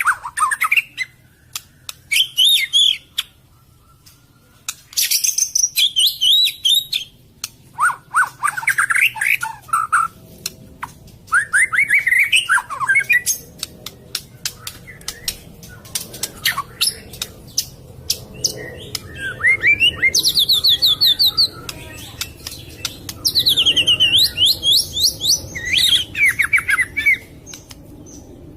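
White-rumped shama (murai batu) singing: a string of varied phrases of rising and falling whistles, fast trills and sharp clicks, with short pauses between them.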